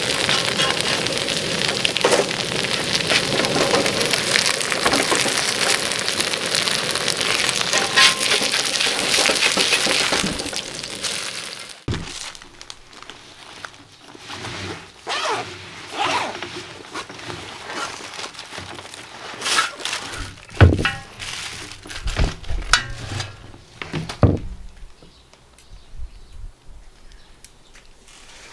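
Kimchi pancake frying in oil on a cast-iron pot-lid griddle: a dense crackling sizzle that cuts off abruptly about twelve seconds in. Then scattered handling noises: a carry bag's zipper opening, a plastic bag rustling and a wire stand clinking.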